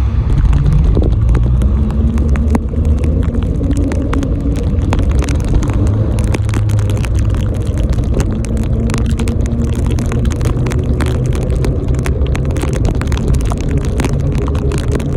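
Loud, steady low rumble of riding a bicycle, with many sharp ticks and rattles throughout.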